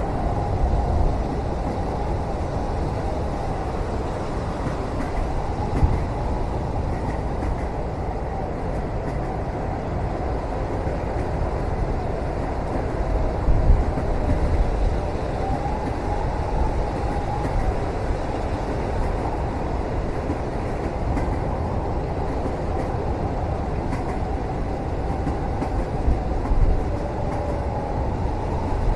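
Steady low rumble of a moving train heard from inside a passenger cabin, with faint wavering whines and a few louder knocks, about three in all.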